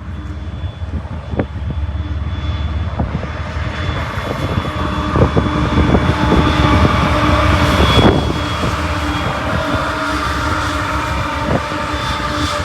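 Union Pacific heavy freight train's diesel locomotives rumbling past, with sharp clicks from the wheels on the rails. It grows louder to a peak about eight seconds in, then eases a little.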